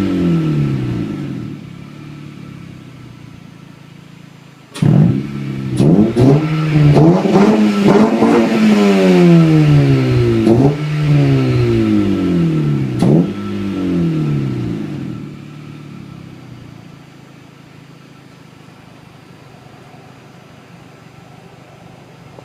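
2012 Honda Civic Si's 2.4-litre four-cylinder, with an aftermarket Vibrant exhaust, RBC intake manifold and Injen cold-air intake, being free-revved. Revs fall back to idle at the start; about five seconds in comes a series of quick sharp throttle blips, each dropping away, with two more single blips. It then settles to a steady idle for the last several seconds.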